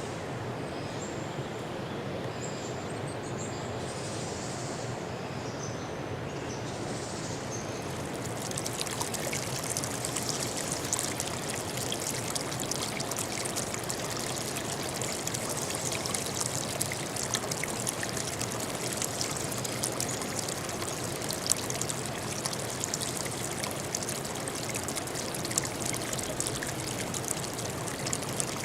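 Running water of a stream, trickling and splashing steadily. About eight seconds in it grows brighter and more splashy; before that a softer steady rush with a few faint high chirps.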